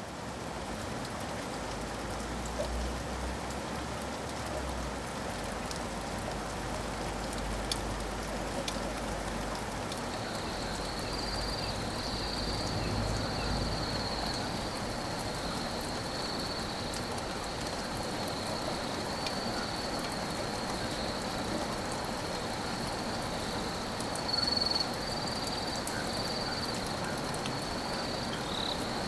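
Steady rain falling, an even hiss of drops. About ten seconds in, a continuous high-pitched trill joins it and runs on.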